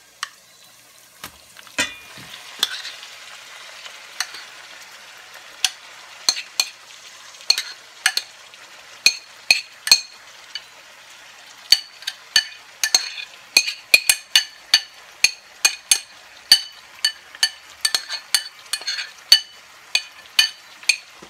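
Marinated duck pieces sizzling in hot oil and fried onions in a pan as they are tipped in, while a spatula scrapes and knocks the marinade bowl clean. The knocks are sharp, each ringing briefly, and come more often in the second half.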